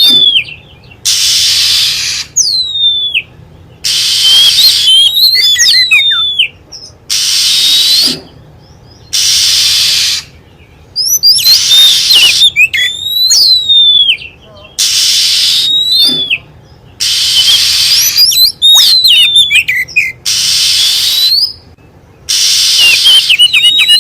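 Oriental magpie-robin lure recording: rapid, curving whistled notes alternate with loud, harsh hissing rasps about a second long, repeating every second or two.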